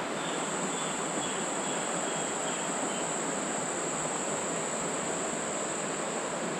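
Rainforest insects droning with one steady high-pitched tone, over an even rushing noise. Faint short chirps repeat about twice a second during the first few seconds.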